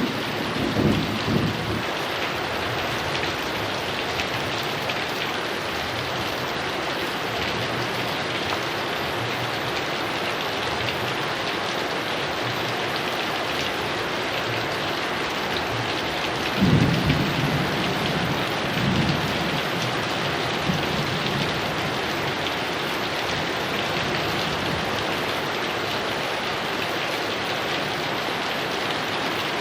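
Heavy rain falling steadily, with rolls of thunder rumbling low in the first second or so and again twice around halfway.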